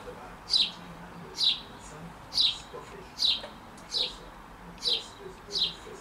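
A songbird repeating one high, downward-slurred whistled note about once a second, seven times, in an even series.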